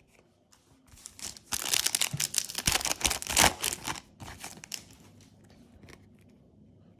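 Foil booster-pack wrapper crinkling and tearing, for about three seconds with a burst of crackle in the middle, then a few faint clicks of cards being handled.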